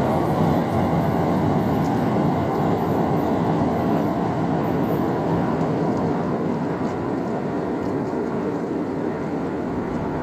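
Train crossing a river railway bridge; its steady running noise slowly fades as it moves away.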